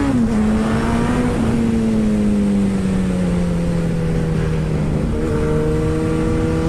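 Suzuki Hayabusa's inline-four engine heard from on board under wind rush. The revs drop sharply at the very start, then the engine note sinks slowly and steadily as the bike slows through the bends.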